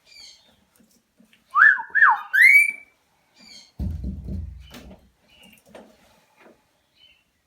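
Cockatiel whistling: three loud rising whistle notes in quick succession, with faint short chirps around them. A brief low rumble follows about halfway through.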